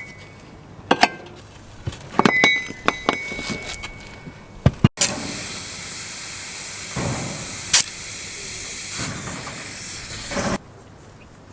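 Metal tools clinking and knocking against a wheel, then a steady high hiss of compressed air, broken by a sharp knock, as a newly fitted mud-terrain truck tyre is inflated. The hiss cuts off sharply near the end.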